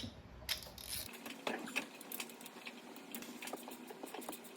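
Faint, irregular metallic clicks and taps of a ratchet with an extension and deep 10 mm socket being worked onto the glow plugs of a 7.3 Powerstroke diesel's cylinder head.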